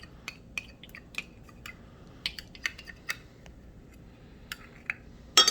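Kitchen utensils and dishes being handled: scattered light clicks and taps, with one louder, ringing clink near the end.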